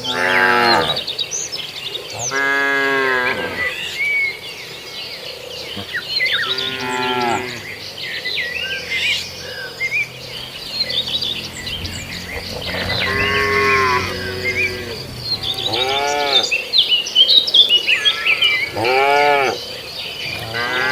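Cows mooing again and again, about six long calls that rise and fall in pitch, with small high chirps behind them.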